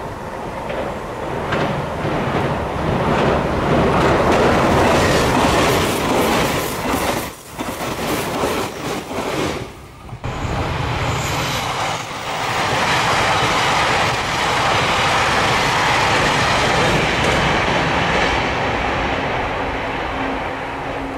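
Electric limited-express trains running over a steel girder bridge. A white 885 series passes with loud rail noise and the clacking of wheels over rail joints, then after a brief lull a blue 883 series comes on with a steady rail rumble. A low steady hum rises near the end.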